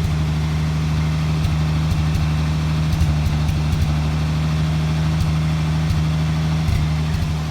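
A 1966 Dodge Dart's 225 slant six engine idling steadily through its original 1-7/8 inch exhaust. The note is mild, "not very threatening".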